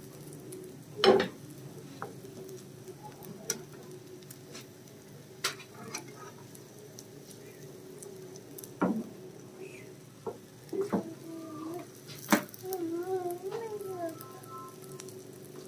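Rice-flour roti with a chicken qeema filling sizzling in an oiled frying pan. A metal slotted spatula taps and scrapes against the pan several times, loudest about a second in and again about twelve seconds in.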